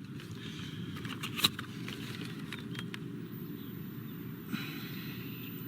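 Old VHS camcorder being handled, with a few faint clicks about a second and a half in, over a steady low rumbling background.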